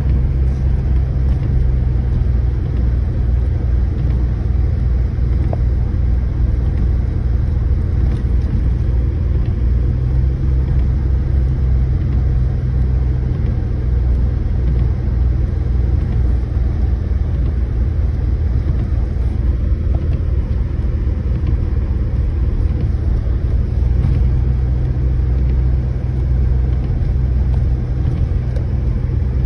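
Steady, loud low rumble of a running motor vehicle, a constant engine hum under a faint wash of noise.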